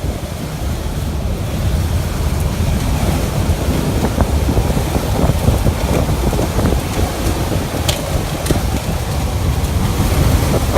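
Hurricane-force wind gusting and buffeting the microphone with a dense, low rumble, with a couple of short clicks about eight seconds in.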